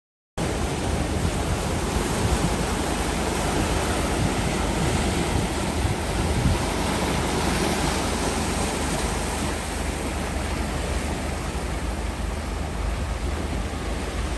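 Sea surf washing on the shore, mixed with wind buffeting the microphone: a steady rushing noise with a deep rumble underneath, starting abruptly about half a second in.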